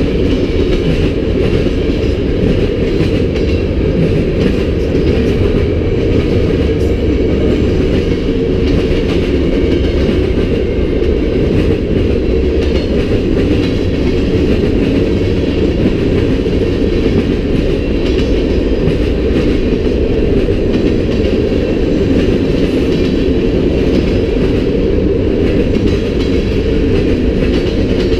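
Freight cars of a CN manifest train rolling past: a steady, loud rumble of steel wheels on the rails that neither builds nor fades.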